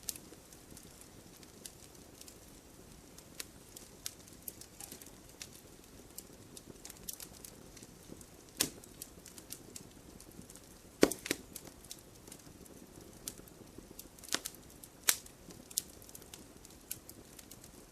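Wood fire crackling in a fireplace: a soft steady hiss with irregular small pops. A few sharper, louder pops come in the second half.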